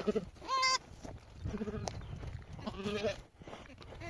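Sheep bleating: a high-pitched bleat about half a second in, a lower bleat about three seconds in, and lower calls between them.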